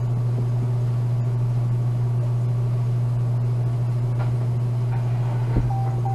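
Car engine idling with a steady low hum. Near the end there is a single thump, then a rapid repeating electronic warning chime starts, about three beeps a second.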